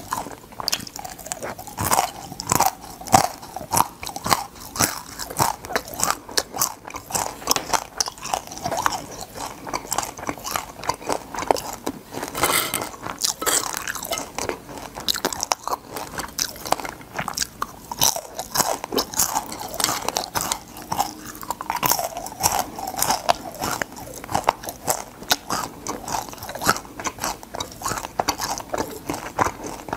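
Crunching and chewing of crispy deep-fried flower crab (kkotge twigim), many sharp crunches in quick succession as the shell-on pieces are bitten and chewed.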